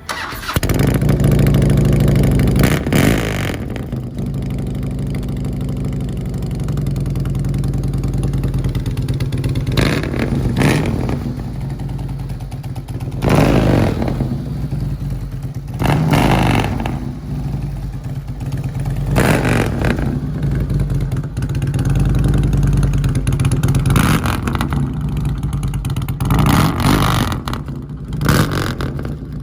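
Harley-Davidson Softail V-twin running through a 42-inch Sharktail true-dual fishtail exhaust. It idles and the throttle is blipped again and again, each rev rising and falling back to idle.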